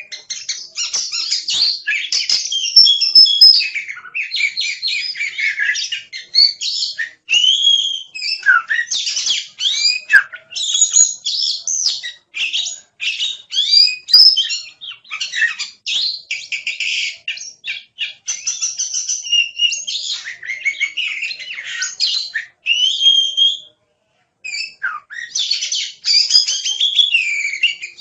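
Oriental magpie-robin (kacer) singing a long, varied song of fast whistles and chattering notes, with a few brief pauses.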